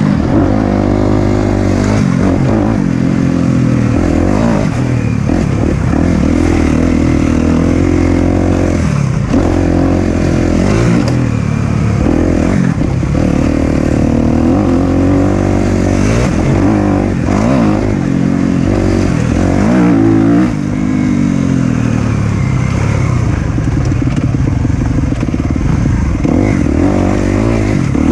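Four-stroke single-cylinder dirt bike riding a trail, its engine revving up and down again and again with the throttle and gear changes.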